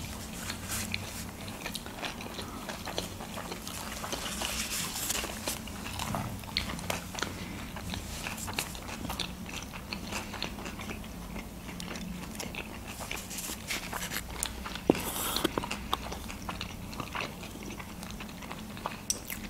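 Two people chewing mouthfuls of sushi rolls close to the microphone: a steady run of small wet clicks and smacks, with one sharper click about fifteen seconds in.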